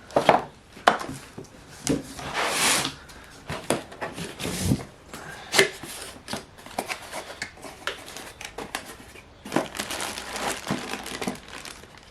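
Parts and packaging being handled out of a cardboard box: plastic wrapping crinkling and rustling, with irregular knocks and clicks as pieces are picked up and set down.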